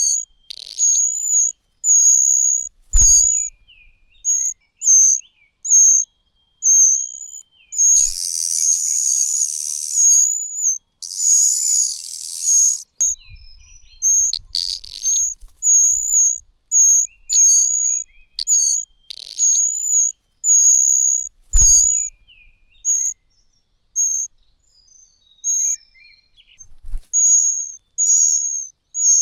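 High, thin begging calls of nestling birds, repeated about once or twice a second, with two longer harsh, hissing bouts of calling partway through. Two dull thumps come at about 3 s and 21 s.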